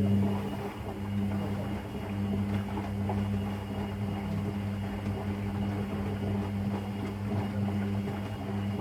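Whirlpool FL 5065 front-loading washing machine running in its softener rinse: a steady electric hum with water rushing through it.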